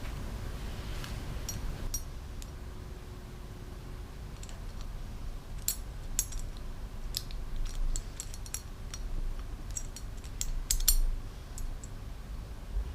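Small metal parts and hand tools clicking and clinking as small plates and their little Allen head screws are fitted to a two-stroke powervalve assembly. The sharp light clicks are scattered, a few early on and many in the second half, over a low steady hum.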